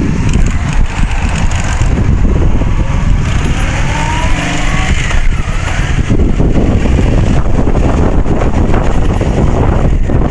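Heavy wind buffeting on the microphone of a moving Honda 750 motorcycle, a loud, constant low rumble. The engine note rises and falls faintly underneath a few seconds in.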